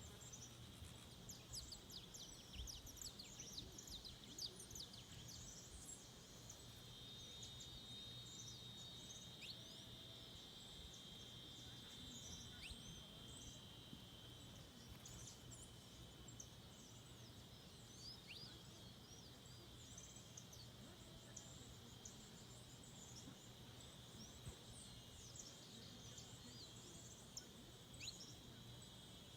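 Faint forest ambience: a steady high insect drone, with many short, high, sharp bird chirps scattered over it, thickest at the start and again near the end.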